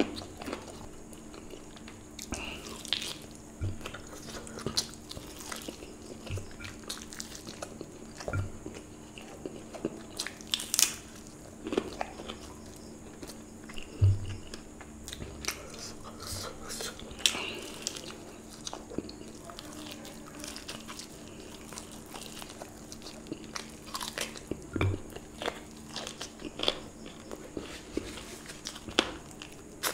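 Close-up chewing and biting of fried chicken leg eaten by hand: scattered crunches and clicks with short pauses between them. A faint steady hum runs underneath.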